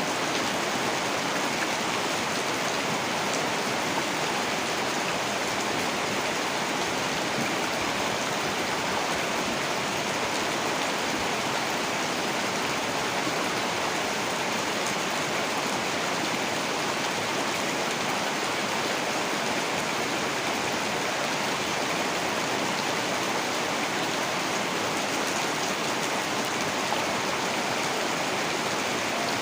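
Heavy rain falling steadily, an even unbroken hiss of rain with no thunder or other events.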